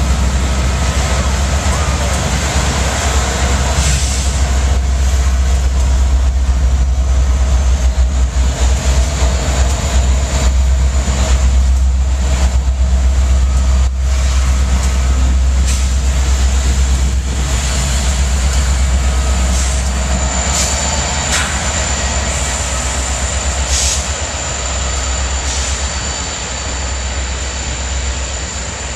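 Freight train passing at low speed: its diesel locomotives run with a steady low rumble as they pull by, then intermodal trailer cars roll past. Several sharp clanks stand out along the way.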